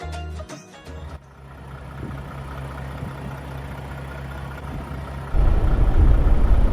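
Background music ending about a second in, then a semi truck's diesel engine idling steadily with a low hum. About five seconds in, a much louder low rumble suddenly takes over.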